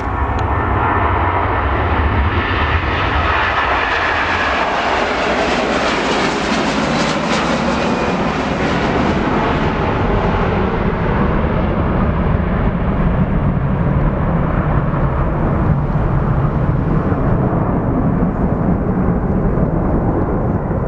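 Jet airliner passing close by: the engine noise builds to a hissing peak about seven seconds in, then the high end fades and a deep, steady rumble carries on.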